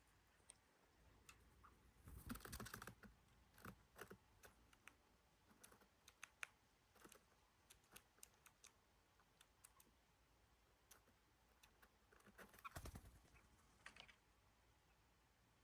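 Faint, irregular crunching and clicking of dogs eating dry kibble, with two denser bursts of crunching, one a couple of seconds in and one near the end.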